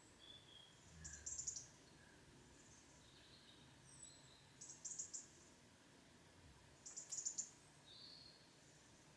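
Songbirds chirping faintly: three short, very high rapid chirping phrases about two to three seconds apart, with thin whistled notes between them.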